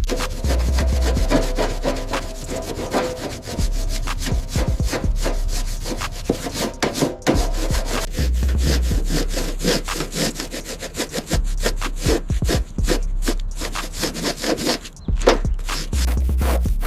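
Rapid back-and-forth scraping and rubbing strokes on a surface, a dense rasping rhythm with a brief pause about fifteen seconds in.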